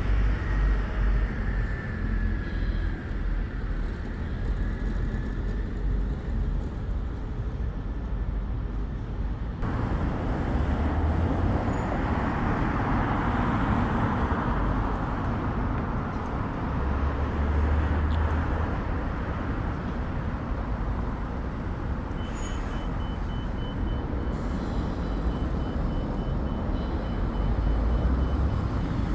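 Steady road traffic of cars, vans and trucks going by, with engine rumble and tyre noise and one louder vehicle passing about twelve seconds in. Near the end comes a run of rapid high-pitched beeps.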